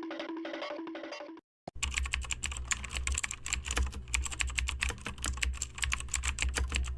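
Rapid typing on a computer keyboard: a dense, fast run of key clicks over a low hum. It starts right after a short musical phrase cuts off, about a second and a half in.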